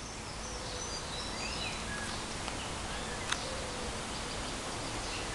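Small birds chirping and whistling in short phrases over a steady outdoor background hiss, with one sharp click a little over three seconds in.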